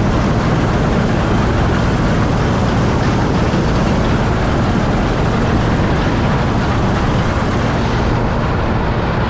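Heavy farm machinery engine running steadily at constant load, a loud even drone with most of its weight in the low end.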